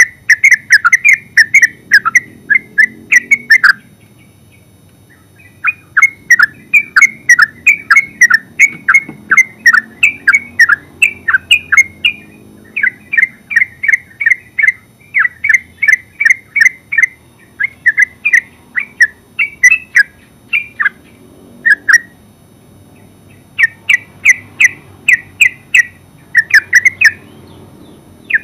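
Yellow-vented bulbul chattering in a fast, continuous run of sharp notes, several a second, broken by two short pauses, one early on and one about three-quarters through.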